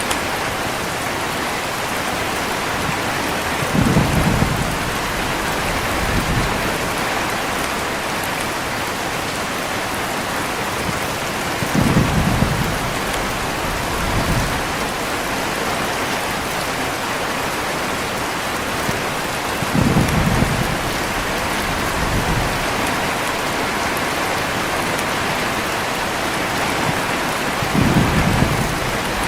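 Heavy, steady rain pouring down, with short low rumbles of thunder breaking in four times, about eight seconds apart.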